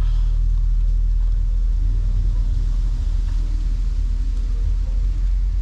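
Car engine running steadily at idle, a low rumble.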